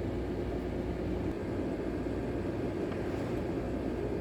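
Heavy storm rain and wind beating against a window, heard from indoors as a steady rumbling roar.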